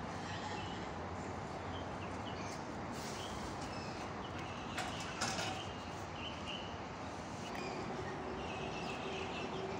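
Goats moving about and feeding over steady background noise, with short high chirps scattered through and a couple of sharp knocks about five seconds in.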